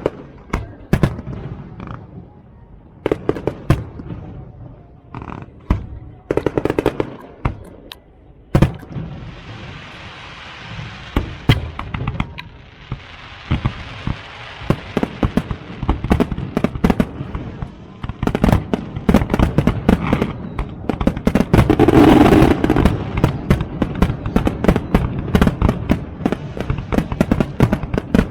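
Fireworks display: a dense run of bangs and sharp reports from aerial shells, with a long crackling hiss in the middle stretch and the biggest, deepest boom about three-quarters of the way through.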